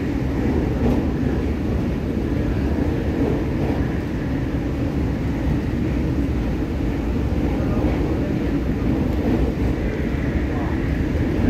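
Steady interior running noise of an MTR K-Train electric multiple unit travelling between stations: a low, even rumble of wheels on rail and the car body, with no sudden events.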